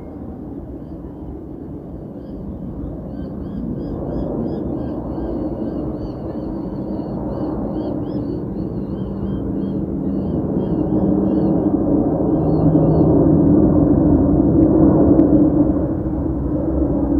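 Jet airliner passing overhead, its engine noise growing steadily louder to a peak about thirteen to fifteen seconds in, with a steady hum through it. Birds chirp repeatedly over the top.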